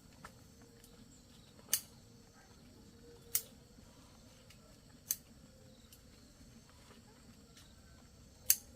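Four sharp snips, one every second or two, as chayote shoots are cut from the vine.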